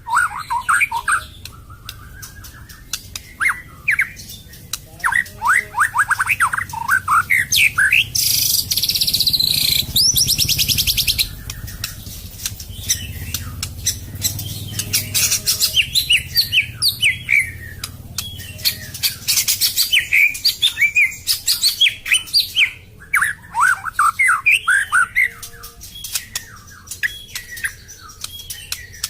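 White-rumped shama (Medan murai batu) singing a varied song: quick runs of loud whistled notes and pitch glides. About a third of the way in comes a few seconds of dense, high buzzing rattle.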